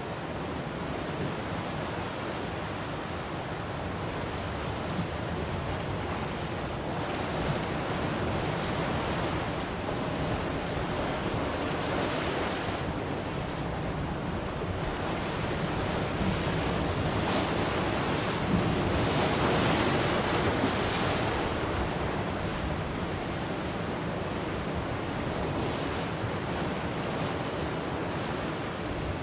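Ocean waves breaking and washing on a shore, a steady surf wash that swells to a louder break in the middle.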